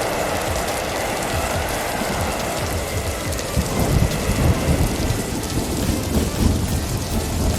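Blizzard wind blowing against a moving car: a steady rushing noise with low, rumbling gusts that swell about halfway through.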